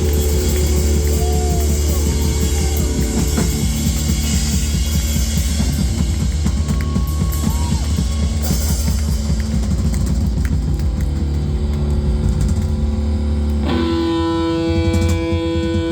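Live rock band playing loudly, with heavy bass and drums; about fourteen seconds in, a single held guitar note rings out steadily over a thinner backing.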